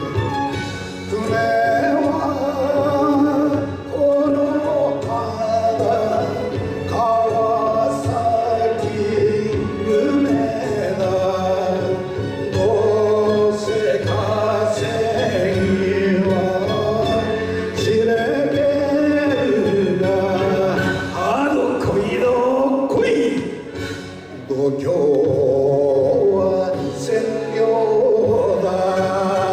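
A song: a singing voice with musical accompaniment, the voice gliding between held notes, with a short drop in loudness about 24 seconds in.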